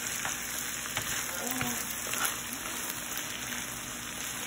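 Shredded chicken and diced onions frying in olive oil in a pan: a steady soft sizzle with a few faint clicks.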